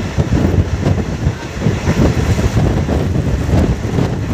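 Rumble of a moving passenger train's coaches running on the rails, heard from an open coach door, with wind buffeting the microphone.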